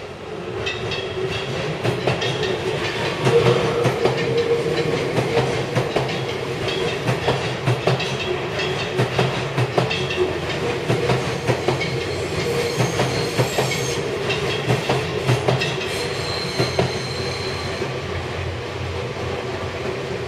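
Seibu Railway electric trains passing over the tracks, wheels clacking over rail joints with a steady running hum, and brief high-pitched tones in the upper range that may be wheel squeal.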